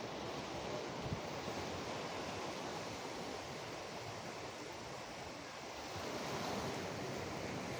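Sea waves washing ashore in a steady rush, swelling a little louder about six seconds in.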